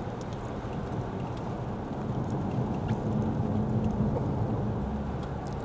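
Lexus ES 350 sedan driving on a wet road, heard inside the cabin: steady tyre and road noise with a low hum, swelling a little midway, and small scattered ticks of rain.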